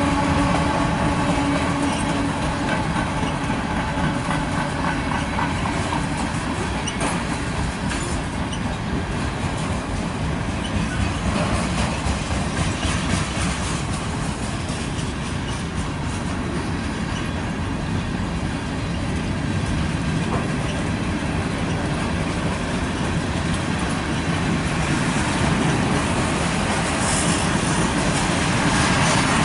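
A CSX manifest freight train's cars rolling steadily past: boxcars, lumber flatcars and covered hoppers, with wheels clicking over the rail joints under a constant rumble.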